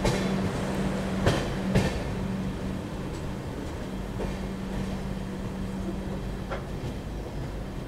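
Garib Rath express train (LHB coaches) running at speed, heard from on board: a steady rumble with a constant hum, and a few sharp knocks in the first two seconds and another near the end.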